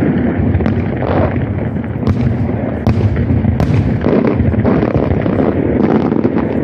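Fireworks display going off: a continuous rumble of many overlapping booms, with sharp bangs cracking through it every second or so.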